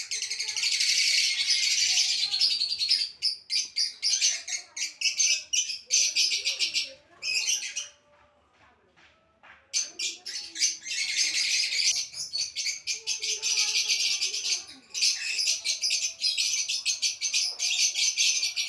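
A flock of small aviary birds chirping and chattering densely. They fall silent for about two seconds around the middle, then start again.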